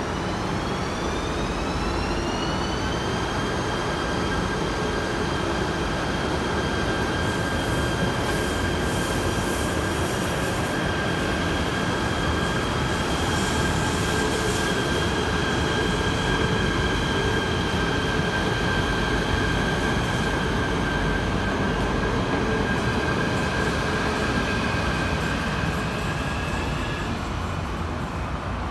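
Electric train running on the line, with a wheel and rail rumble underneath and a high motor whine that rises in pitch over the first few seconds, then holds steady. The whine fades out near the end.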